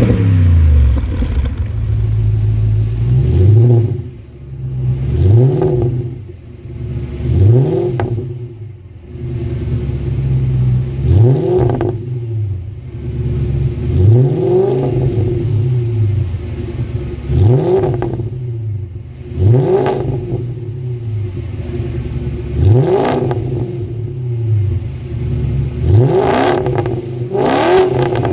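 Audi C5 engine with an aftermarket exhaust being blipped repeatedly while stationary: about a dozen short revs, each rising sharply and dropping back to a steady idle.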